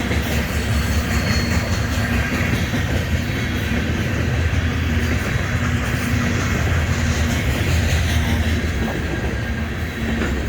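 Freight train of hopper cars rolling past, a steady rumble of wheels on the rails.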